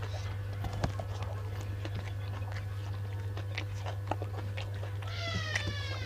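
Close-miked chewing with small wet clicks of food in the mouth over a steady low hum; about five seconds in, a cat gives one meow that falls in pitch.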